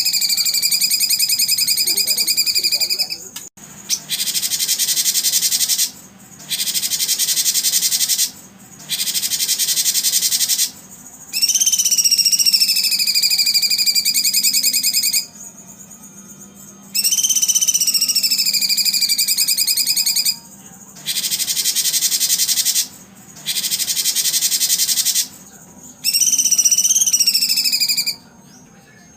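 Songbird song playing as a repeated training recording for competition birds. Long whistled notes that dip and level off alternate with stretches of fast, high, buzzy trilling, each phrase a few seconds long with short pauses between.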